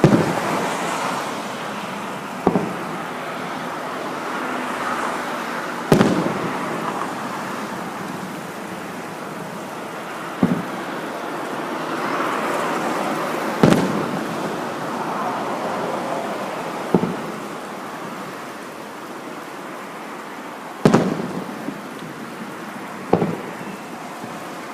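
Fireworks display: shells going off with about eight sharp bangs a few seconds apart, over a steady rushing background noise.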